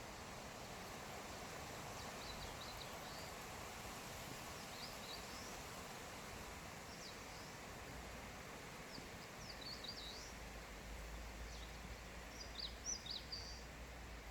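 Forest ambience: a steady soft hiss with small birds giving short, high chirps now and then, the busiest and loudest flurry of chirps near the end.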